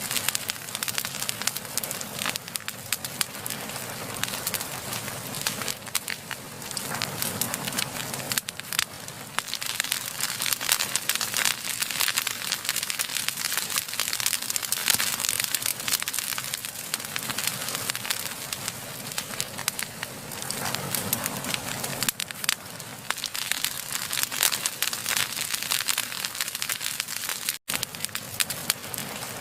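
Wood fire burning, with dense, irregular crackling and popping that keeps up steadily, broken once by a split-second dropout near the end.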